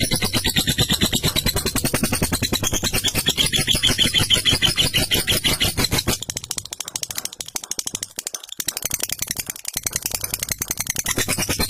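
Lovebird giving a long, rapid chattering trill (ngekek), a fast run of harsh notes. It thins out and softens from about six seconds in, then picks up again near the end.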